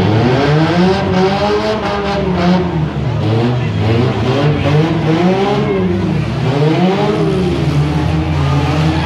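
Demolition derby car engines revving up and down, their pitch rising and falling four or five times over a steady low engine drone.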